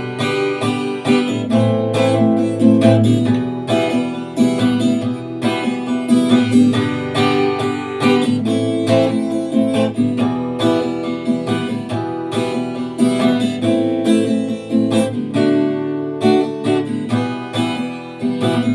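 Acoustic guitar strummed steadily in an instrumental passage, with no singing.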